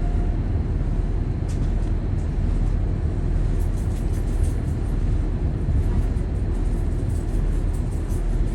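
High-speed catamaran ferry running underway: a steady low rumble.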